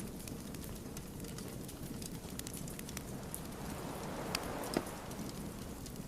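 Wood fire crackling: scattered sharp pops and snaps of burning logs over a steady low rush of flames, with the loudest pop a little before the end.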